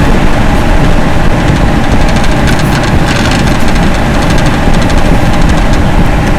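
Loren Cook 100 ACEM centrifugal roof exhaust fan running steadily at its higher speed setting on a newly replaced motor. It is a loud, low rumble with a faint steady hum.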